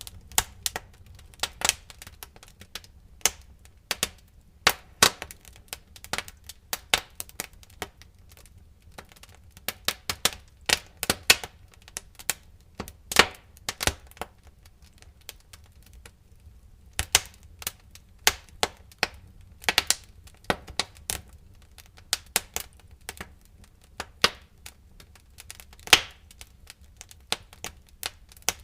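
Wood fire crackling in a fireplace: irregular sharp pops and snaps, some in quick clusters, over a faint low rumble.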